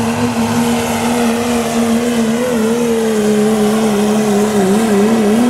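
Dodge diesel pickup truck pulling a sled at full throttle, its engine held at a steady high pitch that sags slightly under the mounting load. Near the end the pitch wavers up and down as the throttle is worked.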